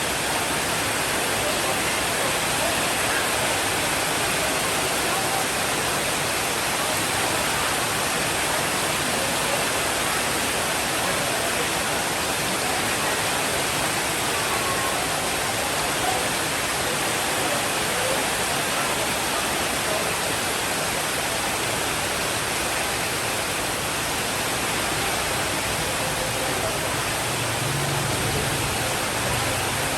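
Steady rainfall, an even unbroken hiss with no individual drops standing out. A faint low rumble of distant thunder comes in near the end.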